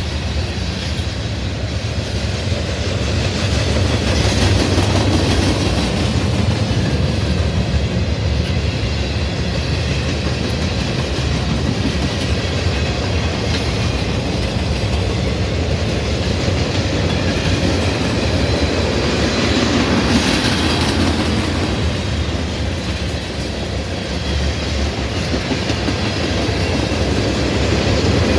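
A freight train's cars rolling past on the track, a steady rumble of wheels on rail that goes on without a break.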